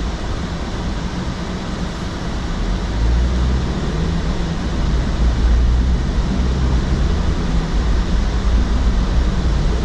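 Interior noise of a Mazda CX-9 SUV driving through snow: a steady rumble of road, tyre and engine noise, growing louder about three seconds in.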